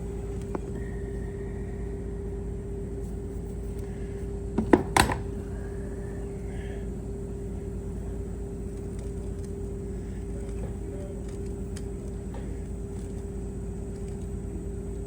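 A brief clatter of metal parts or tools, a few sharp clinks about five seconds in, over a steady mechanical hum.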